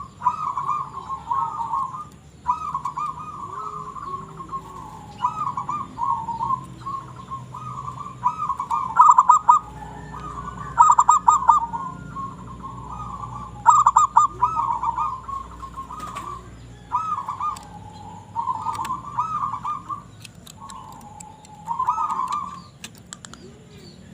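Zebra dove (perkutut) in full song: about a dozen rolling, trilled cooing phrases of a second or two each, repeated with short pauses. A few sharp clicks fall midway.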